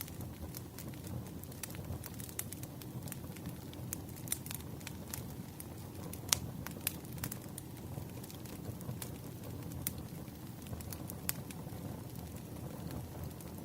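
Wood fire crackling in a fireplace: irregular sharp pops and snaps over a steady low rumble of burning, with one louder pop about six seconds in.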